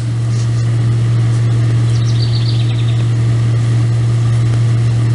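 A loud, steady low hum, like a motor or fan running, with a faint high squeak lasting under a second about two seconds in.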